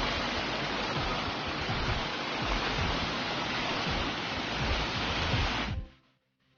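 Steady rushing of a waterfall's falling water, with some uneven low rumble, cutting off suddenly near the end.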